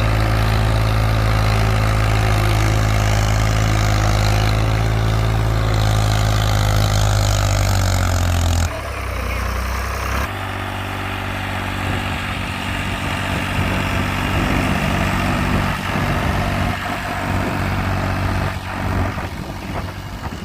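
Ford 4000 tractor engine running steadily while plowing. About nine seconds in the sound drops abruptly, and from about ten seconds on the engine continues quieter, with rougher, uneven noise over it.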